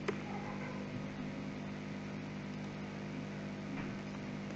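Steady low background hum, with one sharp click right at the start.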